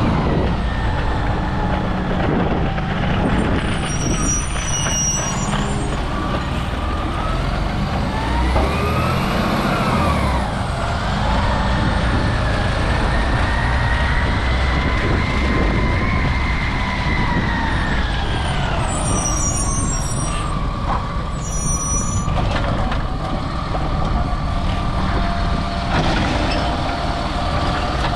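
Autocar Labrie Automizer automated side-loader recycling truck working, its engine running steadily under a whine that rises and falls slowly in pitch several times. Short high squeaks come twice, near the start and about two-thirds of the way through.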